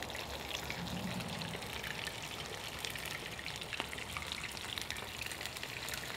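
Chicken wings deep-frying in vegetable oil at about 375 degrees in a cast iron skillet: a steady sizzle made of many small crackling pops.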